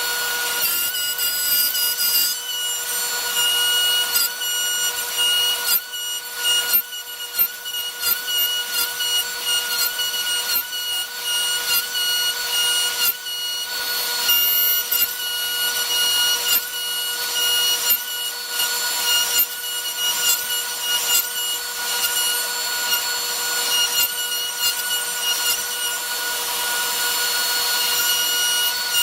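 Router on a Lowrider2 CNC running with a steady high whine while a 1/4 in. two-flute compression end mill carves wood in a rough clearing pass. The cutting noise rises and falls as the bit moves through the wood.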